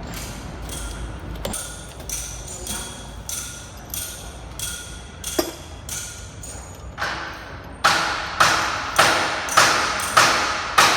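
Hammer striking metal in a steady rhythm, about two blows a second, each with a metallic ring. The blows become much louder about three-quarters of the way through.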